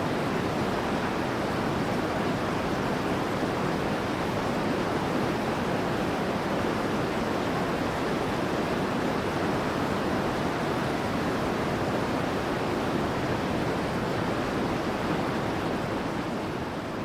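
Steady, even rushing noise like pink noise, strongest in the low-middle range and without any distinct words. The uploader says it is dozens of recordings of human voices reading Bible verses, layered together until they blend into one continuous sound.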